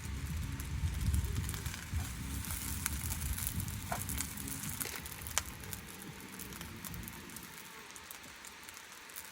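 Rice balls grilling in a pan, sizzling with scattered sharp crackles, over a low rumble that fades near the end.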